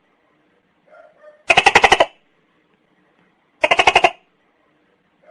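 Gecko calling: two bursts of rapid clicking, each about half a second long and about two seconds apart, each led by a fainter, lower note.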